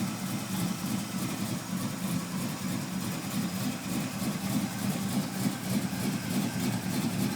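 Small-block Chevrolet 350 V8 in a 1985 Chevy S10 pickup idling steadily through dual exhaust with Flowmaster 40 Series mufflers, its low exhaust note pulsing unevenly.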